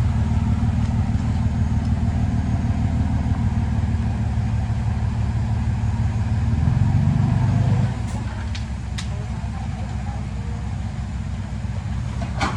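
Heavy diesel engine of a construction machine running steadily. It swells briefly about seven seconds in, then drops quieter about a second later, with a few faint clicks after.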